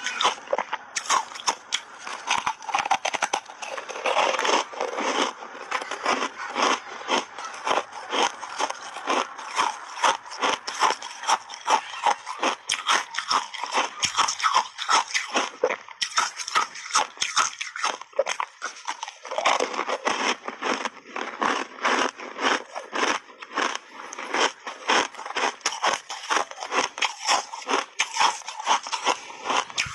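Hard ice chunks being bitten and chewed close to the microphone: a dense, steady run of crisp crunches, several a second.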